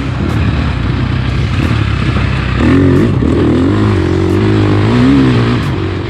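Dirt bike engine being ridden on a trail, its revs rising and falling, surging about three seconds in and again near five seconds.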